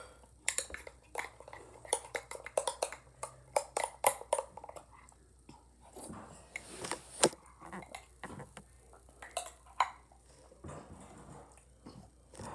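Irregular sharp clicks and knocks, many in quick succession, thinning out after about ten seconds.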